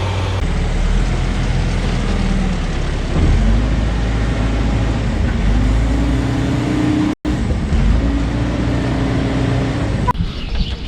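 Heavy farm machinery engine running steadily under load with a low hum, cutting out briefly about seven seconds in and changing near the end.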